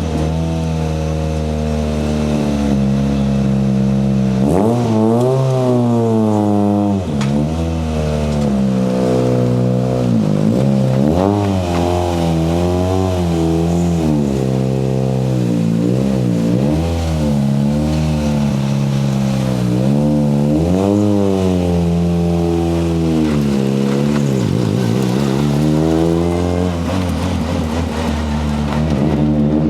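Ford Fiesta RS WRC's 1.6-litre turbocharged four-cylinder rally engine running hard, its pitch climbing and dropping again and again as the car accelerates and lifts off.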